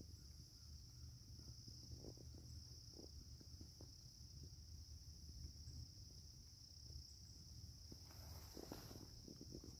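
Faint, steady high-pitched chorus of crickets, with a few soft ticks and rustles, a small cluster of them near the end.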